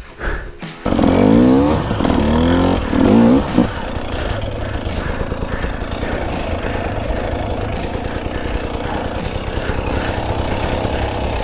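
KTM 300 XCW's 300cc two-stroke single-cylinder dirt bike engine revving up in several quick rising glides over the first few seconds, then running on with rapid throttle changes.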